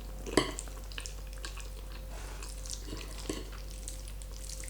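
Close-miked eating of creamy carbonara pasta: small wet mouth clicks and smacks of chewing, with a sharp knock about half a second in, the loudest sound, and a couple of softer ones later. A steady low electrical hum runs underneath.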